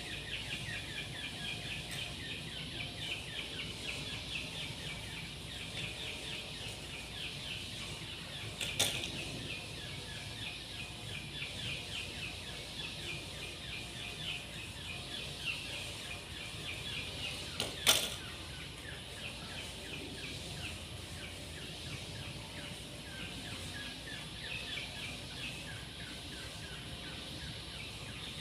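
A steady background chorus of fast, high-pitched chirping, with two sharp clicks, about nine and eighteen seconds in.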